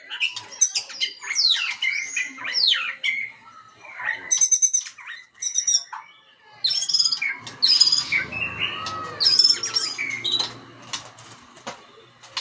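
White-rumped shama singing a varied song of whistled phrases, sweeping glides and rapid rattling trills, delivered in bursts with short pauses; the song thins out near the end.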